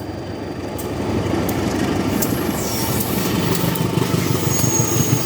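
Serayu passenger train rolling across the steel Cirahong bridge: a loud, steady rumble with rapid rattling and clatter of wheels and carriages, growing slightly louder.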